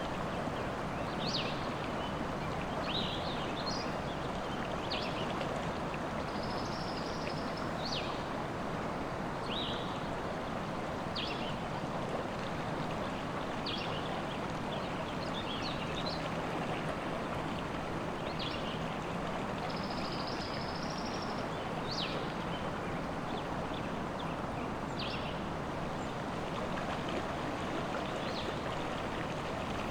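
River water running steadily, with songbirds giving short high chirps every second or two and a couple of brief trills.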